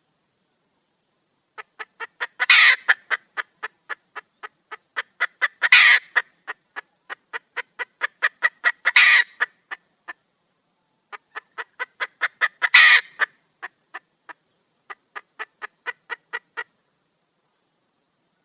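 Junglefowl hen calling for a male: a long run of quick, even clucks, about three or four a second. A louder, harsher squawk breaks in four times. The calling stops a couple of seconds before the end.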